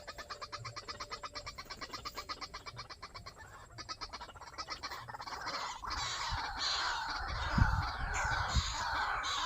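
White-breasted waterhen calling: a fast, even run of pulsed notes, about eight a second, then from about six seconds in louder harsh croaking calls, with a few low thumps near the end.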